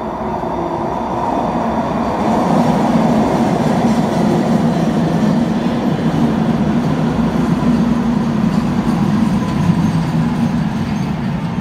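UTDC ICTS Mark I train, a linear-induction-motor rapid transit set, rolling past on steel wheels with a steady running rumble. It swells over the first two or three seconds and eases off slightly near the end.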